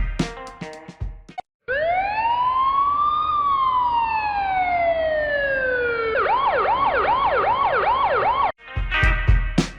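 Electronic emergency-vehicle siren sound effect: one long wail that rises and then slowly falls, switching about six seconds in to a fast yelp of about three to four sweeps a second, then cutting off suddenly. Background music plays before the siren starts and again after it stops.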